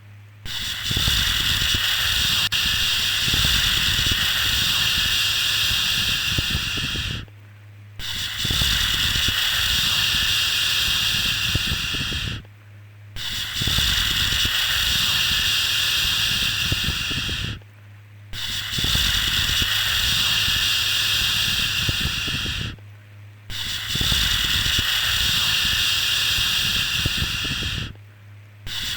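Long, steady 'shhh' shushes, each about five seconds, repeated with short pauses of under a second between them: a soothing shush for lulling a baby to sleep.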